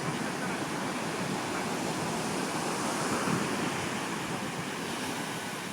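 Ocean surf breaking and washing onto the beach, a steady rush that swells to a peak about three seconds in.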